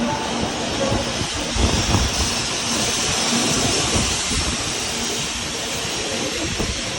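Shinkansen bullet train running past, a loud steady rushing hiss of air and wheels, a little stronger in the first half.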